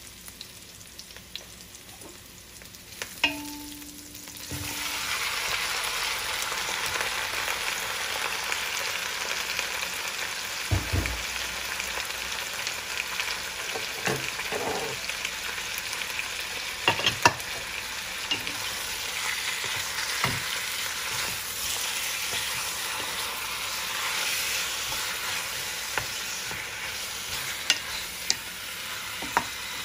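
Raw chicken pieces sizzling steadily in oil in a hot stainless steel wok, together with sautéed garlic and onion. The sizzle swells about four to five seconds in, after a quieter start with a sharp knock. A wooden spoon knocks against the pan now and then as the meat is stirred.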